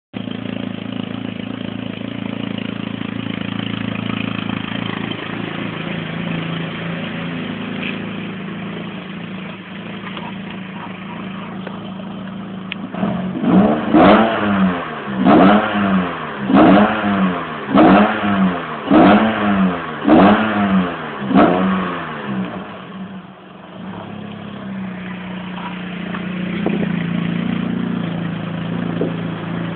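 Volkswagen Golf 3 GTI 16V's 2.0-litre four-cylinder 16-valve engine, freshly repaired, idling steadily. About halfway through it is blipped seven times in quick succession, each rev rising and falling back, before it settles to idle again.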